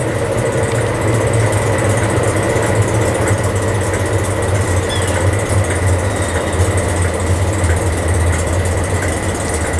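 Class 156 Sprinter diesel multiple unit's underfloor Cummins diesel engine running steadily at low speed as the train draws into the station: a low, even engine hum with a thin steady high tone above it.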